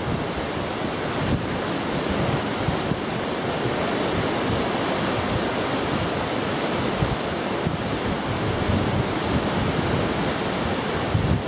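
Strong wind blowing across the microphone, a steady rushing noise.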